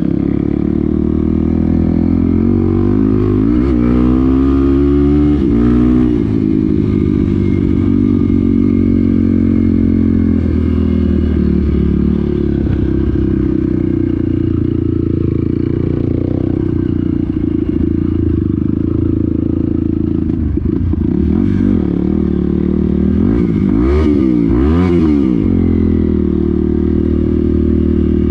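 Off-road motorcycle engine running continuously while riding a trail, its revs rising and falling several times a few seconds in and again near the end, with some clatter from the ride.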